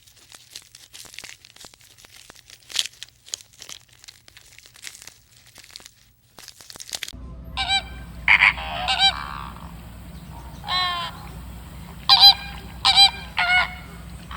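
A run of faint clicks and rustles, then after about seven seconds a new scene: farm fowl giving a series of loud, pitched, nasal calls over a low background rumble.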